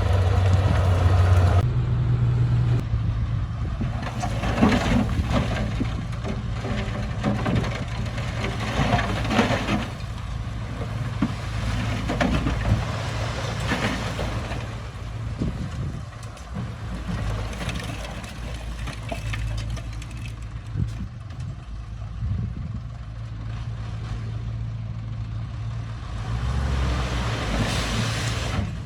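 Diesel engine of heavy earthmoving machinery running steadily, with irregular clanks and rattles for several seconds in the first half.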